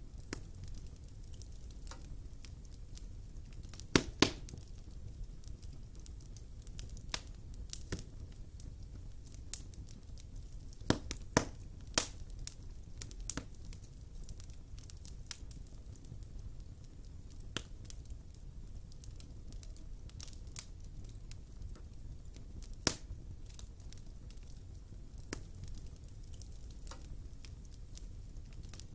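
Wood fire burning in a fireplace: sharp pops and crackles at irregular intervals over a low steady rumble, with the loudest pops about four seconds in, around eleven to twelve seconds in, and near twenty-three seconds in.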